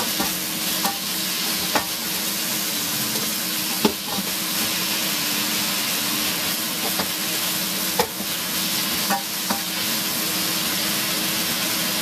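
Seasoned chicken pieces frying in oil in a pan, a steady sizzle, with a few sharp clicks of a utensil stirring against the pan.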